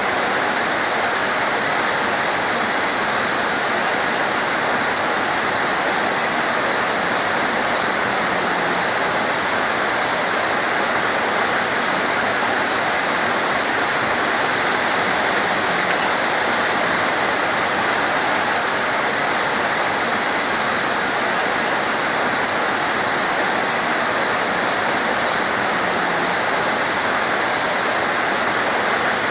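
Torrential rain falling steadily as a dense, even rush of noise, with two faint brief ticks.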